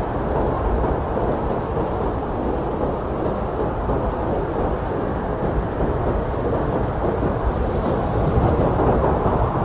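Strong blizzard wind blowing in a steady low rush, swelling a little towards the end.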